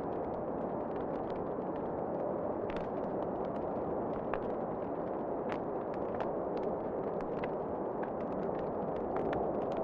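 Wood fire crackling in a fireplace: scattered sharp pops and snaps at irregular intervals over a steady low rushing sound.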